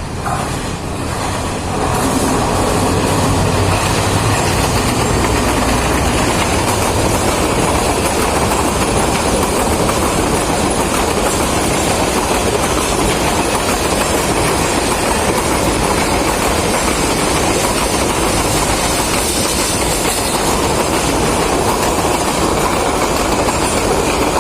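Train running on the rails: a loud, steady noise that builds over the first two seconds and then holds.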